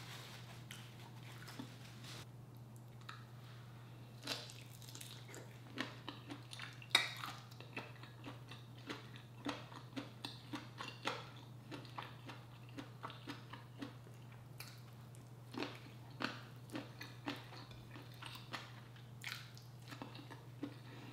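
Close-miked eating sounds of a person chewing and biting seafood: an irregular scatter of soft wet clicks and smacks, over a steady low hum.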